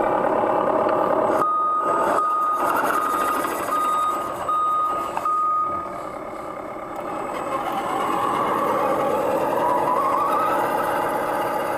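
Truck reversing alarm beeping six times, even high beeps over a steady mechanical running noise. Near the end a whine rises in pitch.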